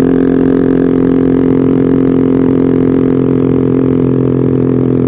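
Yamaha R15 V3's single-cylinder engine idling steadily through an aftermarket replica Arrow racing exhaust, a loud, raspy-toned idle.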